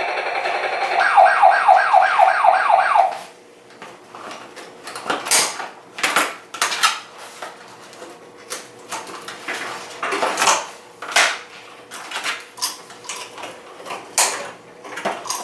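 Electronic sound effect from a Tonka motorized toy helicopter: a steady tone with a fast warbling pulse, about five a second, that cuts off suddenly about three seconds in. Then come scattered plastic clicks and clatter as the toy and its packaging are handled.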